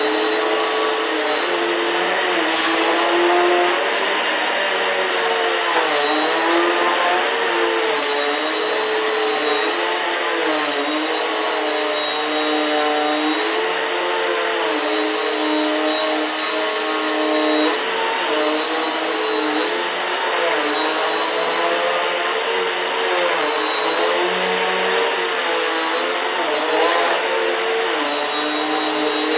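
Eureka PowerSpeed upright vacuum cleaner running with a steady high motor whine, its lower motor hum dipping and rising every second or two. A few brief crackles of debris being sucked up.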